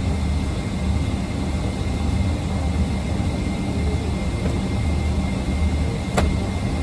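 Steady low drone of an airliner cabin: jet engine and airflow noise heard from inside the aircraft, with a faint steady high tone. A single sharp click sounds about six seconds in.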